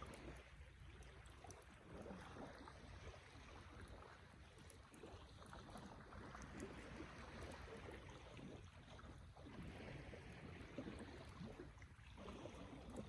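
Wood campfire burning quietly, with faint scattered crackles and small pops over a low, steady rushing noise.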